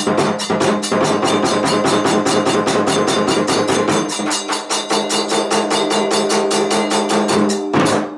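Kagura hayashi music: drums and small hand cymbals strike a fast, even beat of about five to six hits a second over steady held tones. It breaks off abruptly just before the end.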